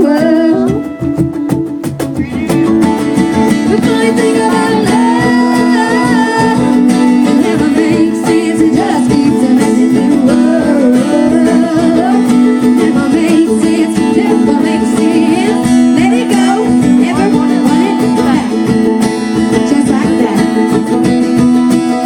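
Live acoustic performance: an acoustic guitar strumming while a woman sings.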